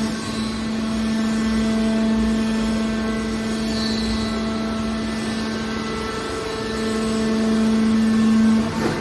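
Industrial machine running with a steady, constant-pitched hum that grows louder from about seven seconds in.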